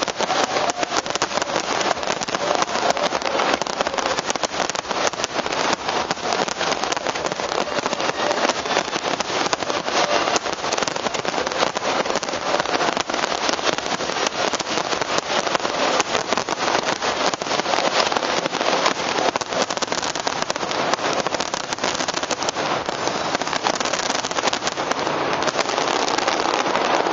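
Fireworks display crackling densely and without pause, a rapid rain-like crackle of many small bursts, growing a little louder near the end.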